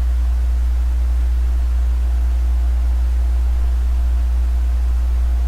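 A steady low hum with faint steady tones above it, unchanging throughout, with no distinct events.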